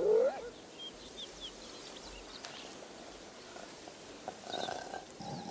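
A wild animal's loud call that glides up and falls back in pitch right at the start, followed by a few faint high bird chirps over quiet savanna background sound.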